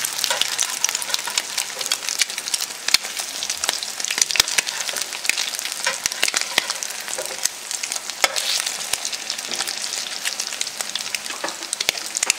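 Salmon patties frying in hot vegetable oil in a cast iron skillet: a steady sizzle with many sharp crackles and pops. A metal spatula scrapes and taps against the pan as the patties are turned.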